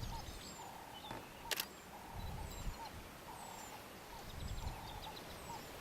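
Lions lapping water, heard as soft irregular low splashes, while birds keep up repeated short falling whistles and a trilling call. A single camera shutter clicks about a second and a half in.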